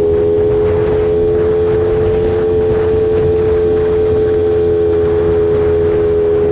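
Small 50 cc pit bike engine at full throttle in fourth gear, holding a high, steady note that creeps slightly up and back down.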